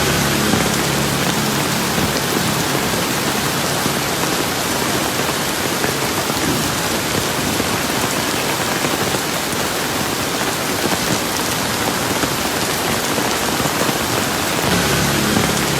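Steady, heavy rain falling and pattering on surfaces, a dense even hiss.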